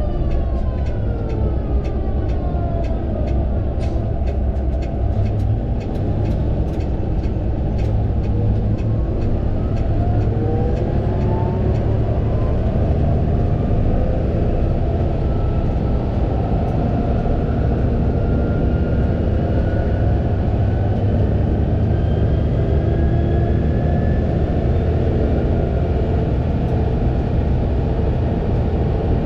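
Fendt 936 Vario tractor running under way: a steady low diesel rumble with whining tones that fall in pitch over the first few seconds, rise again from about eight seconds in, and then hold steady. A run of light, regular ticks is heard during the first several seconds.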